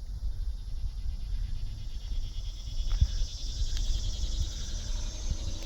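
A high, even insect buzz in dry grass that swells from about halfway in, over a steady low rumble of wind on the microphone and footsteps on dry ground.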